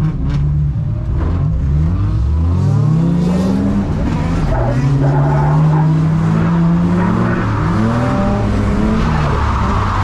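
Drift car engine revving up hard a couple of seconds in and held at high revs through a slide, dipping and climbing again near the end, with tyre noise on a wet track underneath.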